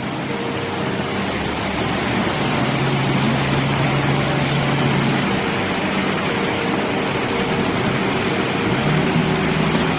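A vehicle driving: steady road and engine noise with a low hum, getting slightly louder as it goes.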